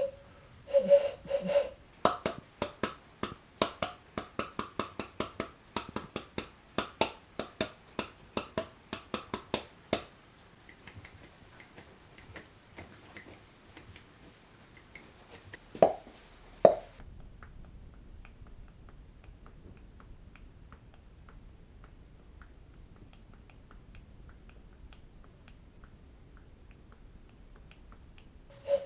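Body percussion: a quick run of sharp, dry hand sounds of the finger-snap or clap kind, about three a second, for roughly ten seconds. Two louder single hits come a little past the middle, and after them only faint room noise.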